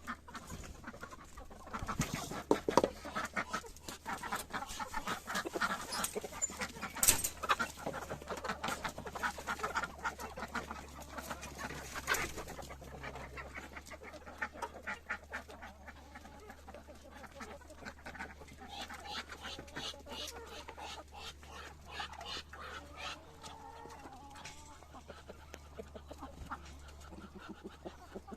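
Chickens clucking, with a few sharp knocks among them.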